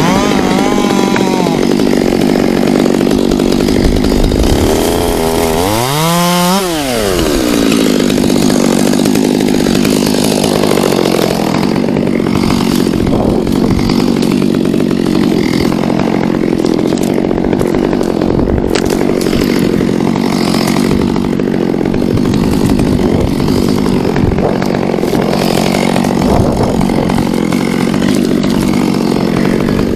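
Chainsaw running steadily at high revs while cutting, its engine pitch dropping once about six seconds in and revving back up.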